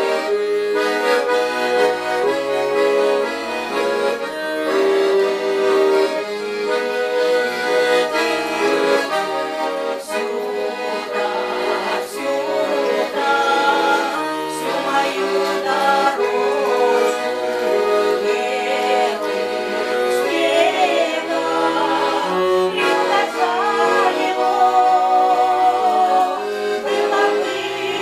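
Accordion playing a tune in sustained notes and chords, with wavering vibrato notes in the second half.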